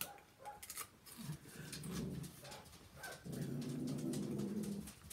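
Crunching of a thin, crisp wasabi chip strip being chewed, most of the crackle in the first second. This is followed by drawn-out, closed-mouth 'mmm' hums from the person eating, a short one and then a longer one from about three seconds in.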